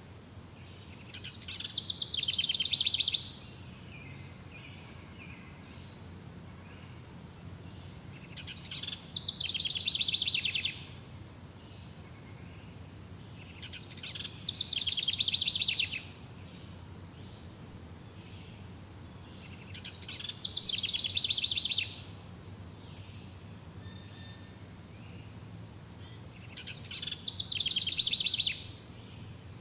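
A songbird singing the same short, rapid trilled phrase five times, about every six seconds; each phrase grows louder over about two seconds, then stops abruptly. A steady low background hum and a faint high steady tone run underneath.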